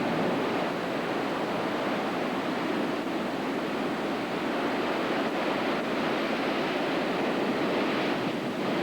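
Heavy hurricane-driven surf breaking on the shore, a steady rushing noise, with wind on the microphone.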